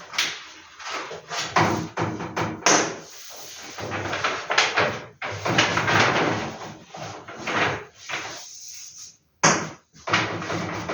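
Large paper posters being handled and sorted: irregular rustling, sliding and flapping of sheets, with occasional knocks.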